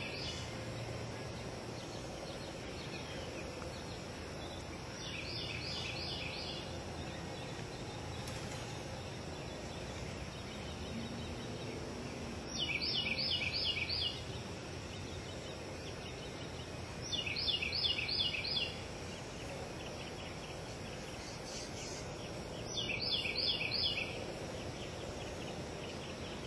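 A bird calling in four separate bouts of rapid, high, repeated notes, each bout lasting about a second and a half, over steady outdoor background noise.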